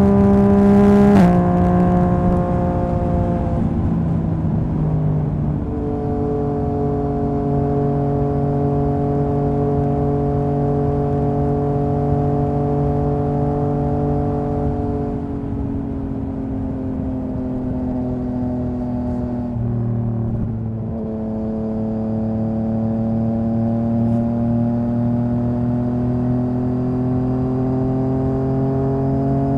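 Yamaha MT-09's inline three-cylinder engine and exhaust under way. The note steps down in pitch a few times in the first several seconds and then holds a steady cruising note. It sags about halfway, breaks briefly around two-thirds of the way through, and slowly climbs in pitch toward the end.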